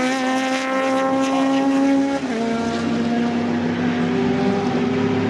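Historic sports racing car engine at high revs, its note climbing slowly, then dropping sharply about two seconds in. A second car's engine note joins near the end.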